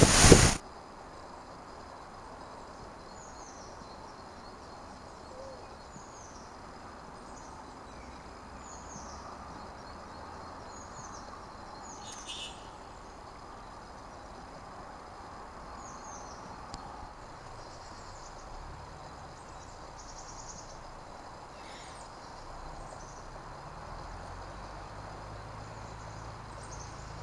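Loud rushing river rapids cut off about half a second in, leaving quiet open-water ambience. Through it a distant bird repeats a faint, short, high falling call about once a second, in runs with pauses.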